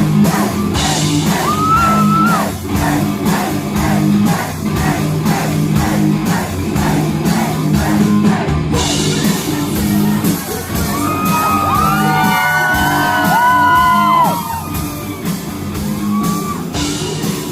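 Live rock band playing loudly in a hall: drums hitting about twice a second with bass and guitars, and a singer's voice coming in over the band in the second half.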